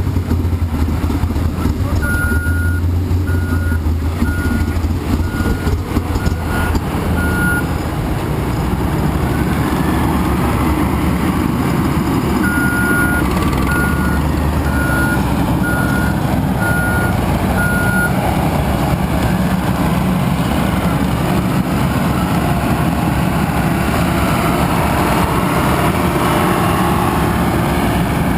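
A vehicle's reversing alarm beeping in two runs of steady, evenly spaced beeps, about two seconds in and again about halfway through. Heavy engine noise runs underneath throughout.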